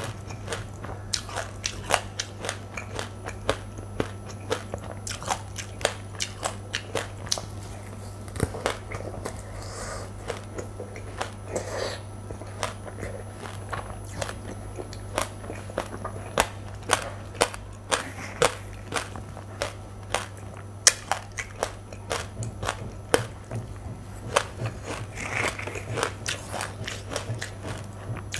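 Close-up chewing of mouthfuls of dry white and black sesame seeds: a dense, irregular run of small sharp crunches, several a second, over a steady low hum.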